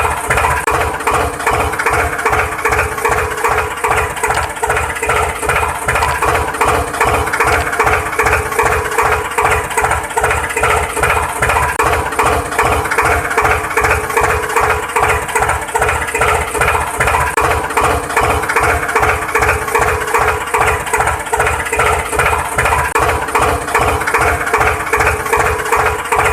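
Engine running at idle, steady, with a regular pulse about twice a second.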